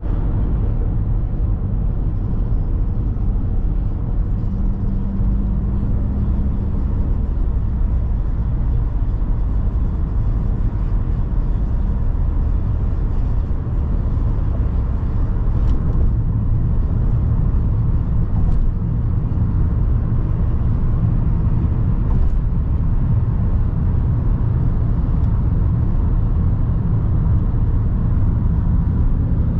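Car driving at highway speed: a steady low rumble of road and engine noise, with a brief steady hum about five seconds in.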